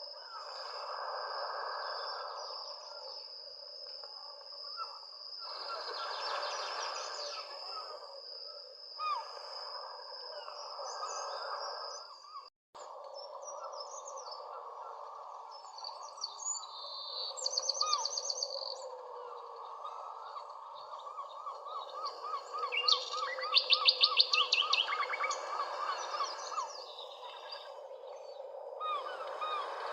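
Several birds chirping and trilling over a steady background hiss, with rapid bursts of trills standing out about halfway through and again about two-thirds of the way in. A thin, high, steady tone runs through the first part, and the sound drops out for an instant just before the middle.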